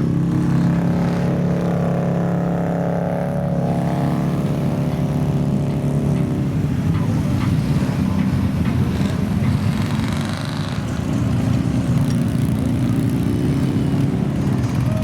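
Off-road vehicle engine running hard, its pitch shifting as the throttle changes.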